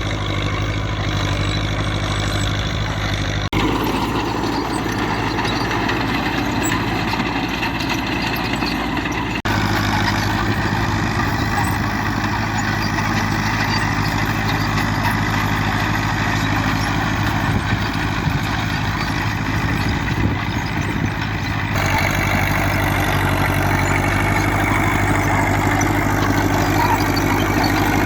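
Diesel engine of a Fiat 70C crawler tractor running steadily. Its tone shifts abruptly three times as the recording cuts between takes.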